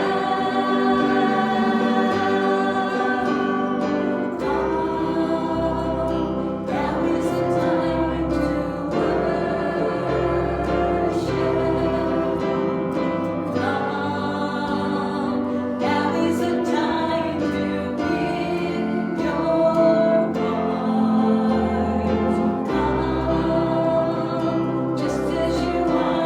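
Congregational worship singing: a group of voices singing a gospel hymn with instrumental accompaniment and a steady bass line.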